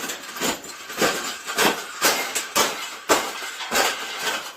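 Irregular knocks and metallic clinks, roughly two a second, from a wire pet cage being bent and folded by hand.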